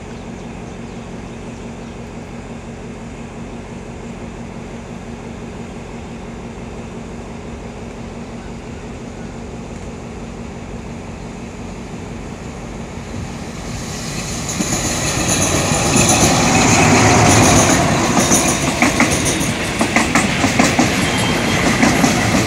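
An Alsthom diesel-electric locomotive and its passenger carriages approach and pass close by on the adjacent track. A steady low rumble gives way about two-thirds in to the loud engine noise of the arriving train. Near the end come repeated clacks of the carriage wheels over the rail joints.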